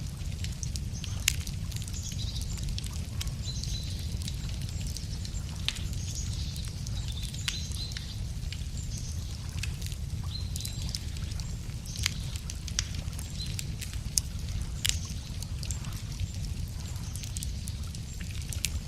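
Wood bonfire crackling, with frequent sharp pops over a steady low rumble, and small birds chirping in the background.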